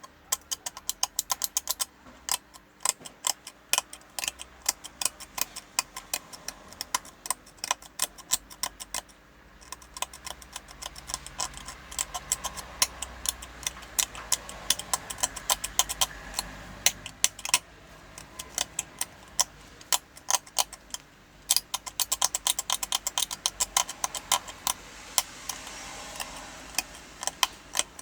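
Scrubbing and scraping at a TV circuit board where a capacitor sat, cleaning off residue: a fast, uneven run of sharp scratchy clicks, several a second, with brief pauses.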